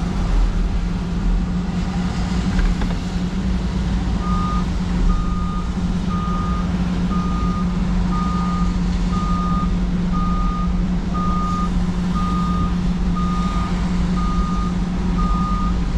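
Cat 305 mini excavator's diesel engine running steadily. About four seconds in, its travel alarm starts beeping in a steady series of single-pitched beeps, a little over one a second, as the machine tracks off the side of the trailer.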